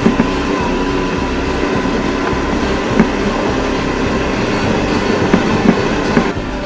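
Motorcycle riding with its engine running steadily, with a few sharp knocks and rattles over the rough road surface.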